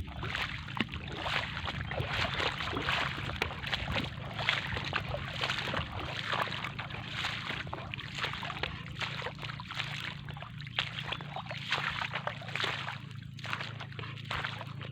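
Irregular sloshing and splashing in shallow water, as of someone wading across a tidal flat, over a steady low hum.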